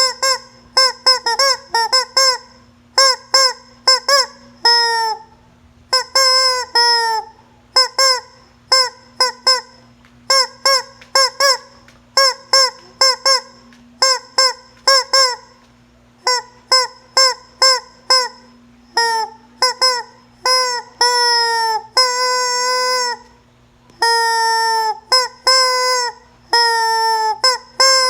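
Squeeze-toy rubber chicken squeezed over and over, giving quick runs of short, identical honking squawks at the same fixed pitch. Near the end come a few longer held squawks.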